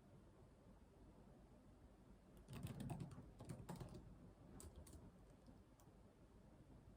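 Faint computer keyboard typing: a short flurry of keystrokes about halfway through, then a few single taps, with quiet gaps between.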